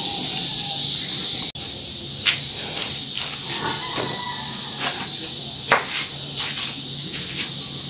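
Steady, high-pitched insect chorus, with a few short ticks and a brief dropout about one and a half seconds in.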